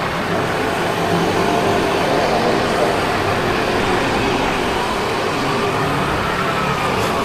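Steady road and engine noise while riding a 50cc scooter through city traffic. A faint whine rises and then falls in the second half.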